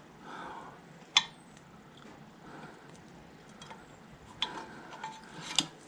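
Small metal parts clicking and ticking as a split pin is worked into a hole in the tractor's brake linkage rod: one sharp click about a second in, a few faint ticks, then two more clicks near the end.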